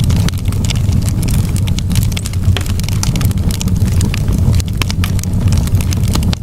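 Wood campfire burning, with frequent sharp crackles and pops of the burning wood over a steady low rumble.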